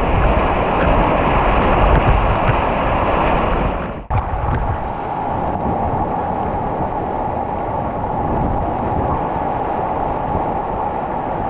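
Waterfall rushing: a loud, steady roar of falling water. It breaks off for an instant about four seconds in and resumes slightly duller.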